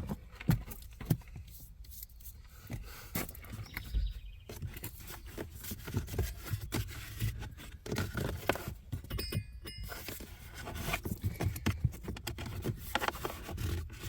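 Hands handling the blower fan and reaching into the plastic blower-motor housing under a car's dashboard: irregular scrapes, rustles and small plastic knocks and clicks, searching for leaf debris.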